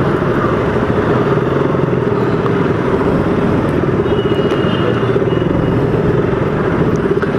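Motorcycle in slow, jammed street traffic: steady engine and road noise with no letup.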